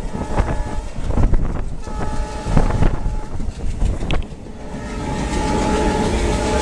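Train running along the track with rail clicks and rumble, its horn sounding several times: near the start, for about a second and a half in the middle, and again steadily over the last second and a half.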